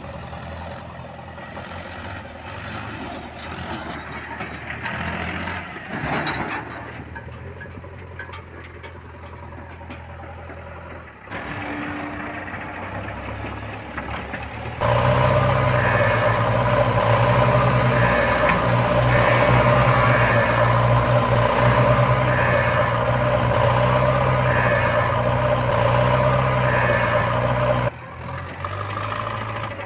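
Heavy vehicle engines running, heard in several short clips that change abruptly; the loudest, a rough-running diesel, comes in about halfway through and runs steadily with a faint repeating higher tone over it.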